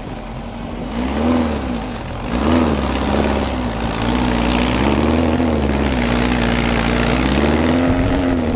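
A vehicle engine running under load, its pitch rising and falling over and over as the throttle comes on and off on rough, rocky ground, and settling to a steady pitch near the end.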